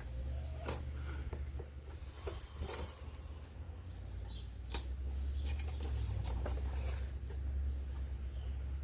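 Light clicks and rustles of a portable fridge and its packaging being handled, with three sharper clicks spread through, over a steady low hum.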